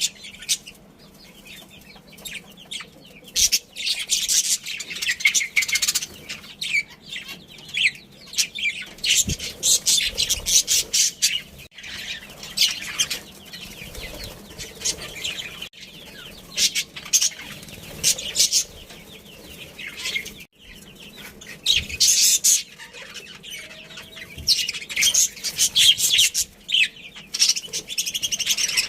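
Budgerigars chirping and chattering, in bursts of rapid high-pitched chirps that come every few seconds.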